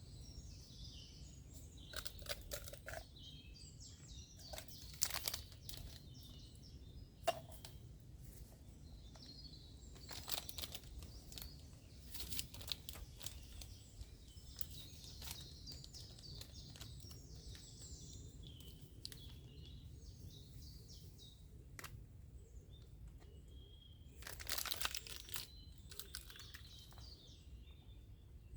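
Faint scattered crinkling and crunching as packets and camp cooking gear are handled, loudest in short clusters a few times, with small birds chirping in the background over a low steady rumble.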